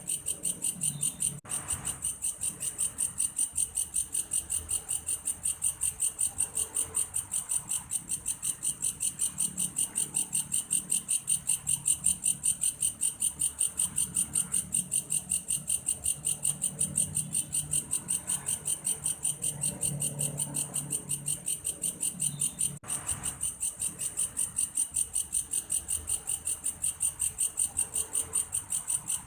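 Belalang kayu, a grasshopper that sings like a cricket, giving a continuous high-pitched pulsing song of rapid, evenly spaced chirps. The song breaks off for a split second about a second and a half in and again near the end.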